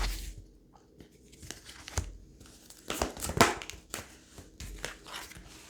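Tarot cards being handled: a few short rustles and light slaps of card stock, the loudest about three seconds in.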